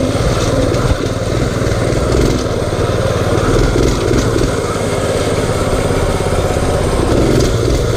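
Mini bike's small engine running steadily while being ridden.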